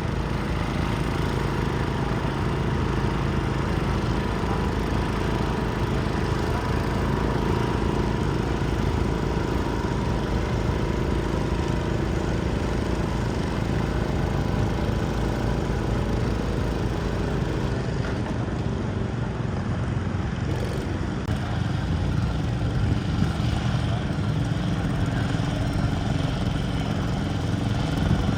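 Small garden tractor engine running steadily at an even speed, with no big revs.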